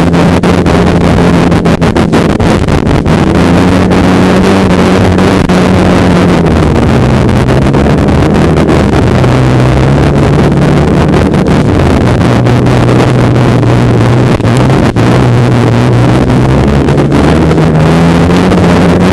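Snowmobile engine running under way, its pitch dropping and rising a few times as the throttle changes, with wind buffeting the microphone.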